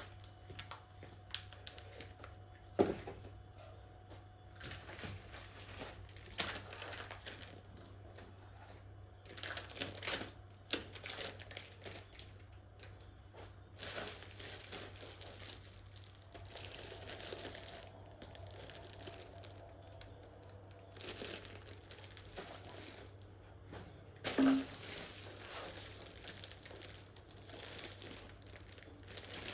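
Irregular crinkling and rustling with scattered knocks and clicks over a faint steady hum; the loudest knocks come about three seconds in and about five seconds before the end.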